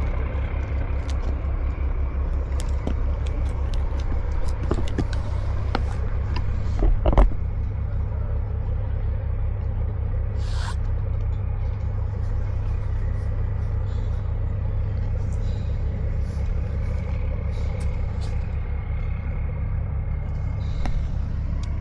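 An engine running steadily with an even low throb. There is a brief knock about seven seconds in, and a few light clicks.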